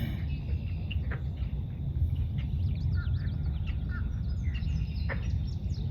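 Several birds chirping and calling over one another in short, quick notes and slurred whistles, one whistle dropping steeply in pitch about five seconds in, over a steady low rumble.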